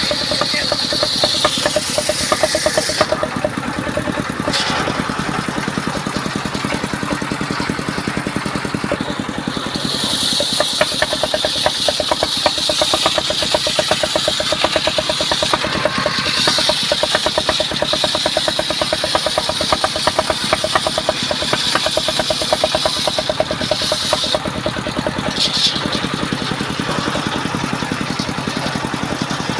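An engine running steadily, with a rapid even pulse and a higher hiss that comes and goes every few seconds. It is most likely the engine driving the sawmill machinery.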